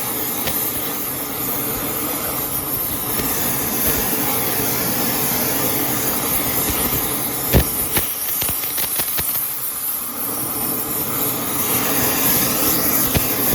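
Electric welding arc hissing and crackling steadily, with scattered sharp pops, as weld is laid into a wheel hub's scored bearing bore to build it back up.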